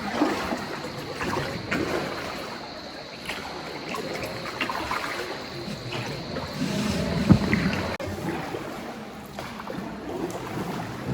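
Small boat moving on cave water: irregular splashing and sloshing from the oars, with small knocks and one louder thud about seven seconds in.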